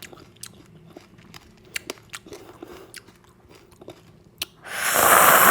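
Close-miked eating sounds: soft, scattered wet mouth clicks and chewing, then near the end a loud, long hissing slurp.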